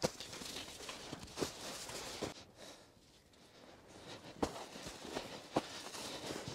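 Snow crunching underfoot or under a shovel: irregular sharp crunches with a rustling haze between them, quieter for about a second in the middle.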